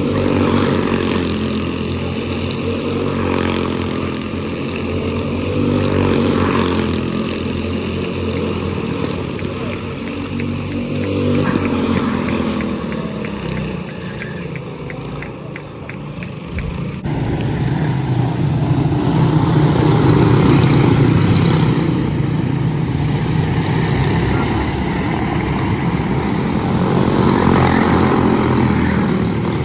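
Quarter midget race cars' small single-cylinder engines running at speed, the pitch rising and falling as the cars throttle and lift. About halfway through the sound changes abruptly to a louder, rougher engine note.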